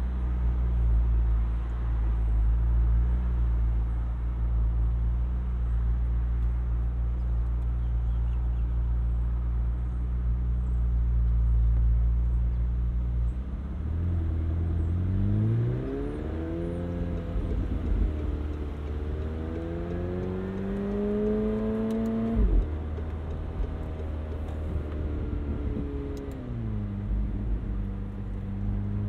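McLaren 720S Spider's 4.0-litre twin-turbo V8 at a steady cruise drone, then pulling hard about halfway through, its note climbing in steps as the gearbox upshifts, with one sharp crack at a shift. Near the end the pitch falls back to the steady cruise drone.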